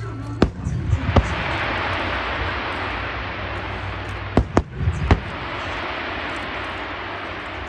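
Fireworks display: aerial shells bursting in sharp bangs, two early and three close together in the middle, over a dense continuous hiss that swells after the first bangs and slowly fades.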